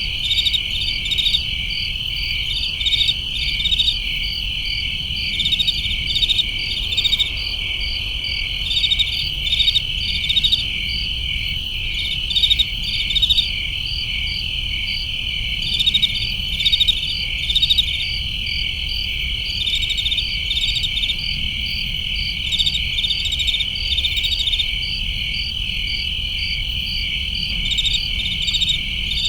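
Crickets chirping: a steady high trill with louder pulsed chirps rising out of it every second or so, over a faint low rumble.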